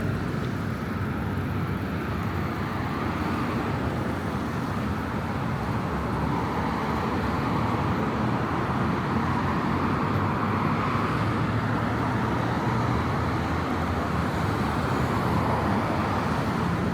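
Steady city road traffic noise, cars running past in a continuous wash, slightly louder from about eight seconds in.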